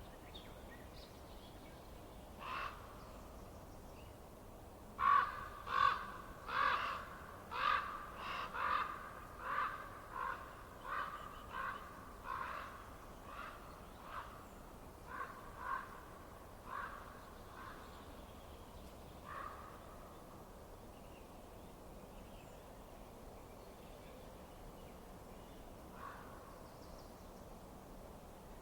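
A bird calling over and over in a run of short, harsh calls, about one a second. The calls are loudest a few seconds in and fade away over the next dozen seconds, with a lone call near the end. A faint steady hiss lies underneath.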